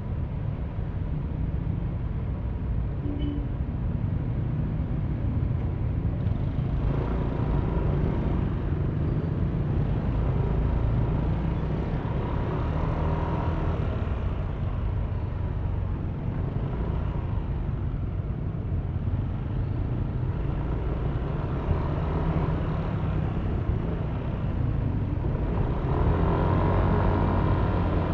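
Yamaha Aerox V3 scooter's 155 cc single-cylinder engine and CVT running on the move, with wind and road rumble. It gets louder with the pitch rising at about seven seconds and again near the end, as the scooter accelerates.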